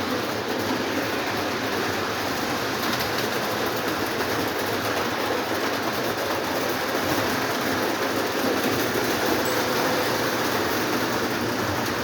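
Several Lionel O27 toy trains running at once around a layout of tubular track, giving a steady, even mix of electric motor whir and wheels rattling over the rails.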